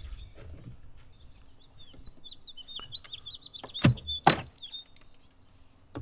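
A small bird chirping a quick run of short high notes for several seconds. About four seconds in come two sharp knocks, a split second apart, which are the loudest sounds here.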